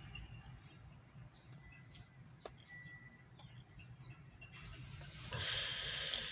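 Faint bird chirps over a low steady rumble, then a broad rush of noise that swells about five seconds in and becomes the loudest sound.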